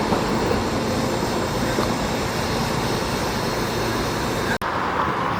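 Steady rumble and hiss of a Staten Island Railway train moving through the station. The sound drops out for an instant about four and a half seconds in and comes back duller.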